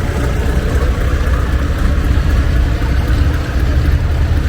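Diesel tractor engine, a Massey Ferguson Super 90, running steadily at low speed, deep and even.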